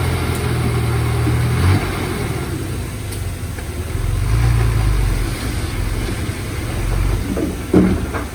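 Diesel engine of a heavy earthmoving machine running, its steady low note dropping off about two seconds in and giving way to a deeper rumble, with a couple of short metallic knocks near the end.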